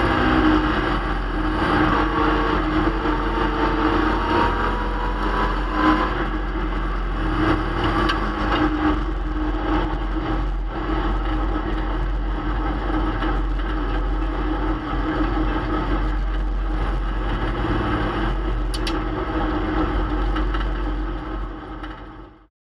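1965 Plymouth Barracuda race car's engine running steadily, heard from inside the cabin, with its pitch rising once a few seconds in. The sound fades out near the end.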